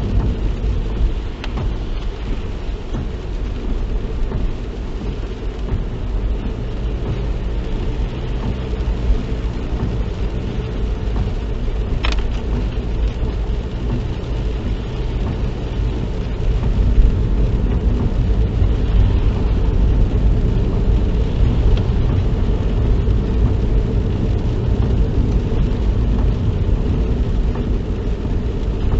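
Car driving, heard from inside the cabin: a steady low rumble of engine and road noise that gets louder a little past halfway. There is a single sharp click near the middle.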